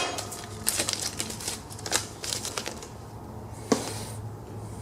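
Mower blades and their fitting hardware being handled, a run of short sharp clicks and clatters with a louder knock at the start and another a little before the end.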